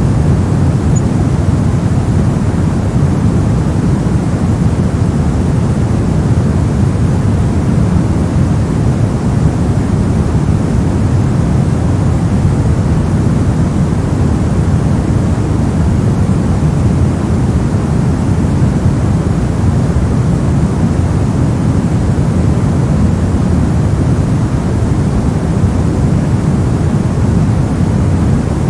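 Continuous generated white noise: a steady, unchanging rushing hiss, heavier in its low rumble than in its high hiss.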